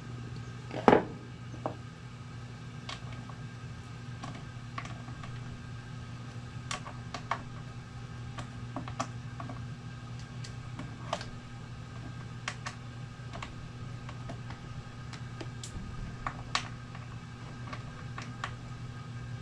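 Scattered small metallic clicks and taps from hands working on a chainsaw's bar and chain, with one sharper knock about a second in. A steady low hum runs underneath.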